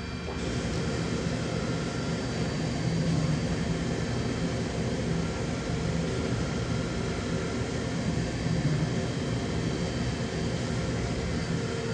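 DMG Mori DVF 5000 five-axis CNC machining centre running: a steady mechanical noise with a low hum and a few held tones, stepping up in level about half a second in.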